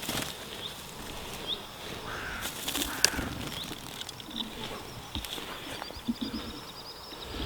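Birds chirping in short high calls, with a fast, high twittering trill near the end, and a few sharp clicks.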